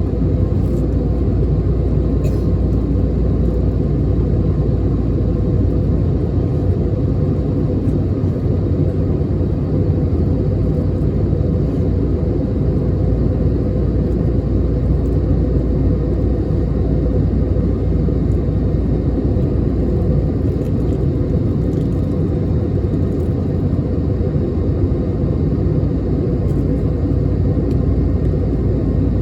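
Airbus A321neo cabin noise in the climb: a steady low rumble of engines and airflow, with a faint steady hum.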